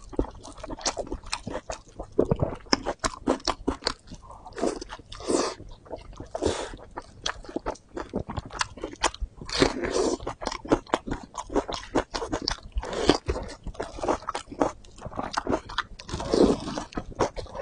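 Close-miked chewing and biting of fatty braised pork: a steady run of small wet mouth clicks and smacks, with louder bursts every second or two.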